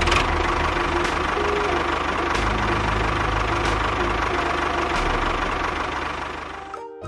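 An engine running steadily with a low throbbing knock, cutting in suddenly and fading away near the end.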